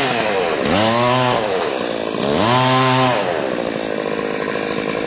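Stihl 045 two-stroke chainsaw cutting into a large oak trunk, revving up and dropping back three times in the first three seconds, then running more steadily.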